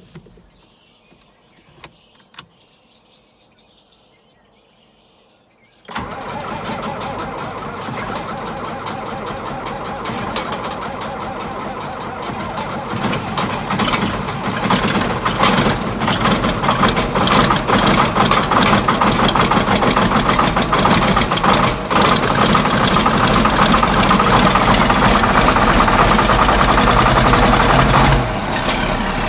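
John Deere 4850 tractor's six-cylinder turbo diesel starting from cold: a few faint clicks, then about six seconds in the engine catches abruptly and runs. It grows louder after another eight seconds or so and drops back a little near the end.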